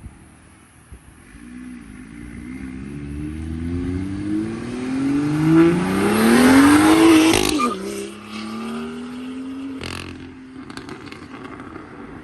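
A car engine accelerating hard: its pitch climbs steadily for several seconds, growing loud, then drops suddenly about seven and a half seconds in as it shifts gear, and it runs on at lower revs before fading.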